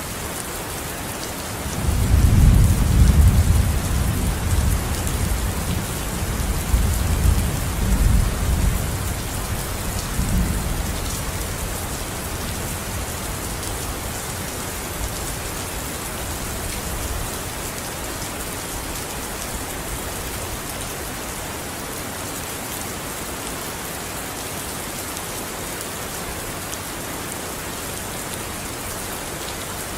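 Steady heavy rain falling on a surface, with a long roll of thunder rumbling in about two seconds in, loudest at first, swelling again briefly, then dying away under the rain after about ten seconds.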